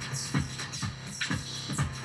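Dave Smith Instruments Tempest analog drum machine playing an electronic beat: drum hits about twice a second, each dropping quickly in pitch, over a sustained low bass note.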